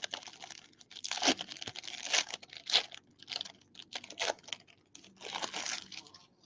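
A trading-card box's plastic wrap and packaging being torn open and crinkled, in a run of uneven ripping and rustling bursts.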